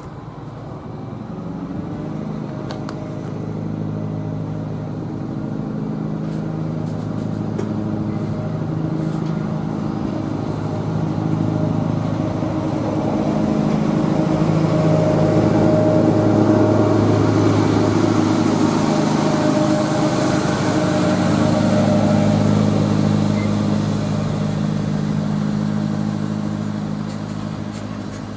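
Diesel freight locomotive passing, its engine note growing louder to a peak a little past the middle and then fading, with a hiss of wheels on rail around the loudest part.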